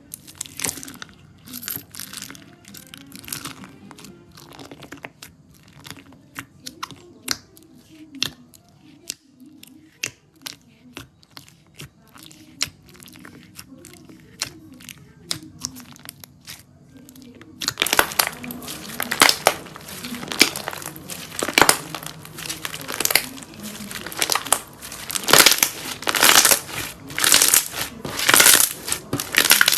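Slime being squeezed, poked and stretched by hand, giving off sharp crackling and popping clicks. About two-thirds of the way in the crackling turns suddenly louder and much denser, like a crunchier slime being pressed.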